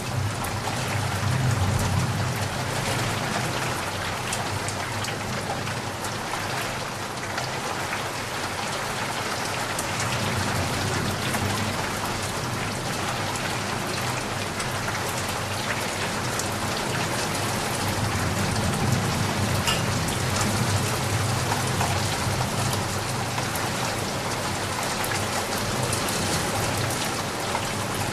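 Steady rain falling, a dense even hiss with individual drops ticking through it. A low rumble swells up near the start and again about two-thirds of the way through.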